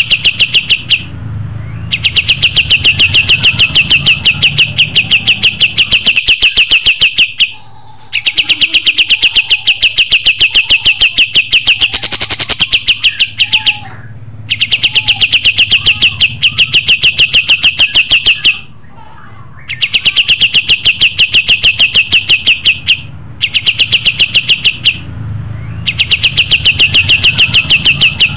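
A kapas tembak songbird singing loudly and continuously: long phrases of rapid, evenly repeated high notes, several seconds each, broken by brief pauses.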